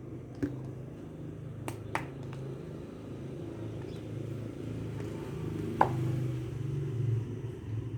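A steady low rumble, growing a little louder over the second half, with a few sharp clicks and knocks, the loudest about six seconds in.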